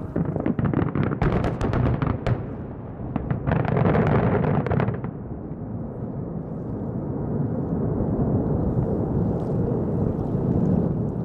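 Aerial fireworks shells bursting over water in a finale: a rapid volley of sharp bangs in the first couple of seconds, then a dense burst of bangs and noise about three and a half seconds in. After that they give way to a steady low rumble.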